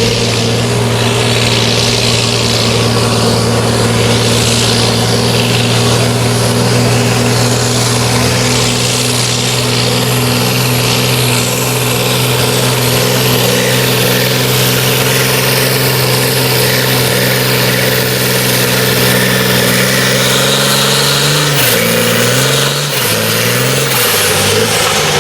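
Farm tractor's diesel engine running hard at a steady pitch under load while pulling the weight sled. About 21 seconds in, the pitch drops and wavers as the engine bogs down and the throttle comes off at the end of the pull.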